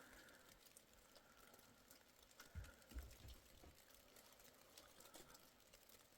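Near silence, with faint scattered ticks and two soft low thumps about halfway through.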